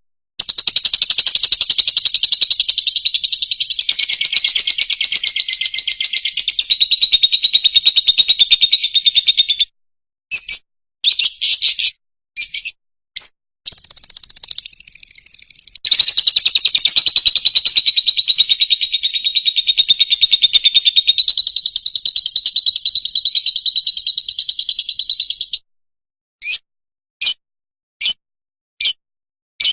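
Fischer's lovebird singing: long runs of rapid, high-pitched chattering twitter, broken in the middle by a few short calls, then a string of single chirps about one a second near the end.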